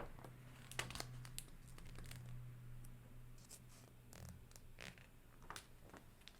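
Faint paper rustles and small clicks from a picture book's pages being handled and turned, over a low hum that stops about two-thirds of the way through.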